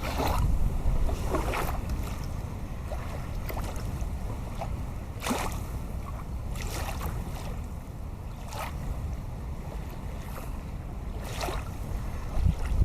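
Small river waves lapping and splashing at the water's edge, every second or few, over a steady low rumble of wind buffeting the microphone.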